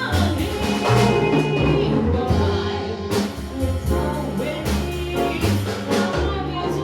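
A small jazz band playing with a vocalist singing. Bass notes and cymbal strikes run beneath.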